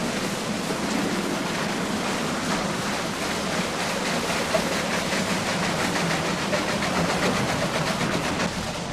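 Water-powered sawmill machinery running: a steady rhythmic mechanical clatter over the rush of water. The clatter grows clearer in the second half.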